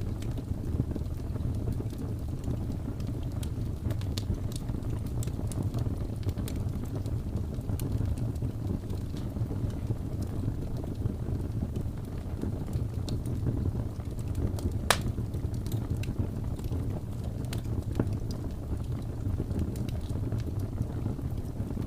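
Wood fire crackling in a fireplace, with scattered sharp pops and one louder snap about fifteen seconds in, over a steady low rumble of blizzard wind.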